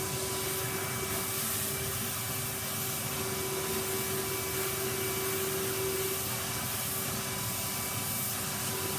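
Vacuum cleaner running steadily, an even rushing noise with a constant hum, while hoovering a carpet.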